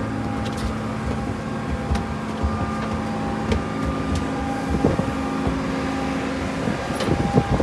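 Steady engine drone heard from inside a vehicle: a low rumble with a constant hum over it, and a few light clicks and knocks.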